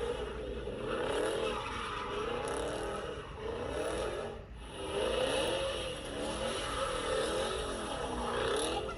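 Car engines revving up and down again and again at a car meet, with a brief break about halfway through.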